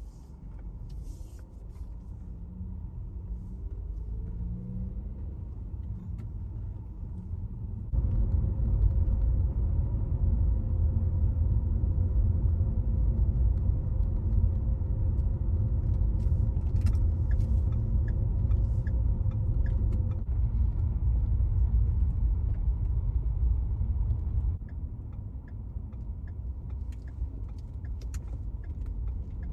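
Car driving: steady engine and road rumble, with an engine note rising in the first few seconds, then a louder, heavier rumble for a long stretch in the middle that drops back suddenly near the end.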